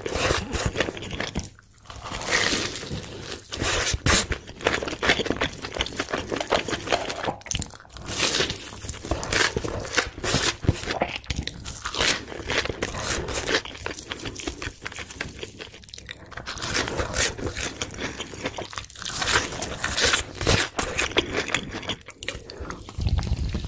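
Close-miked chewing of a crunchy potato-coated corn dog: loud, irregular crunching with wet mouth sounds. Near the end come gulps from a can of cola.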